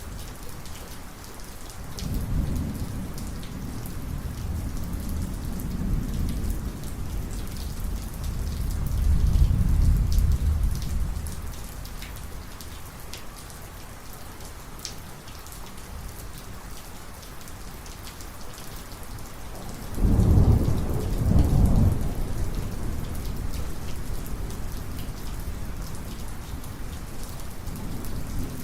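Heavy thunderstorm rain falls steadily throughout. A low thunder rumble rolls in a couple of seconds in, swells and fades out before the halfway mark. A second, sharper and louder peal of thunder comes about two-thirds of the way through and rolls for a couple of seconds.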